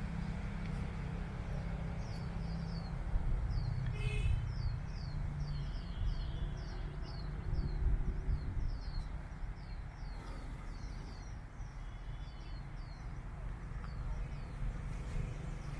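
Birds chirping in a long run of short, high, falling notes, about two or three a second, over a steady low rumble of vehicle and wind noise.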